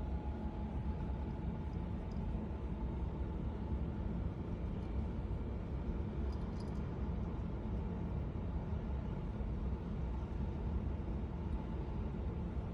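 Steady low rumble with a faint steady hum, unchanging throughout.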